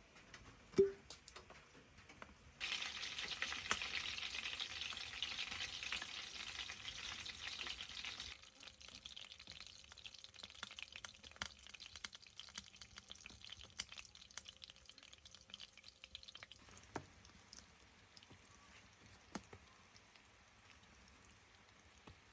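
Food sizzling in hot fat in a pan. The sizzle starts suddenly a few seconds in, then drops to a quieter sizzle with scattered crackles about halfway through.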